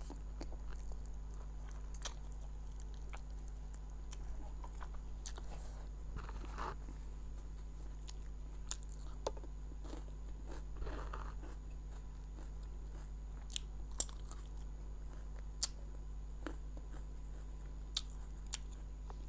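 Close-up mouth sounds of a person eating mutton biryani by hand: soft chewing with scattered sharp clicks and smacks, over a steady low hum.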